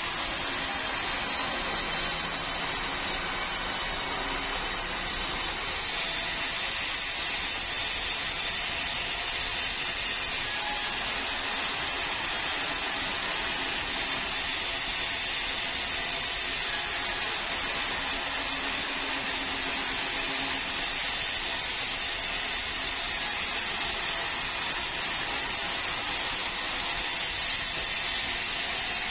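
Sawmill saw cutting steadily through a meranti log, a constant unbroken noise.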